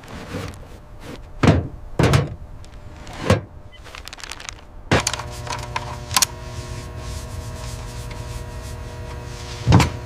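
Several heavy thunks, three close together in the first few seconds, then a steady hum begins about halfway through, with one more heavy thunk near the end.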